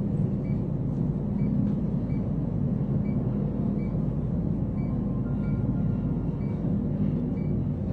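Steady low rumble of a vehicle in motion, with faint regular ticks about every 0.7 seconds.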